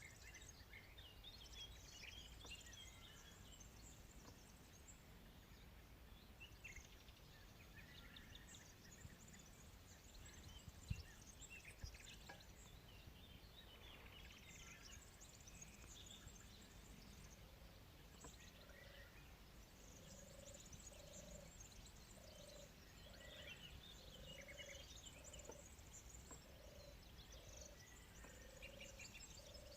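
Faint birdsong: many small birds chirping and twittering. From a little past halfway a low, short call repeats about once a second alongside them.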